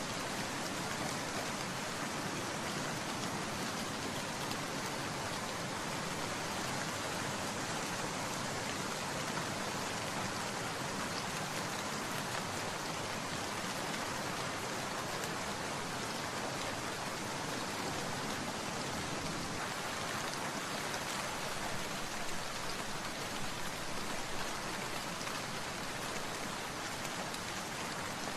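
Steady rain falling, an even continuous hiss of drops on surfaces.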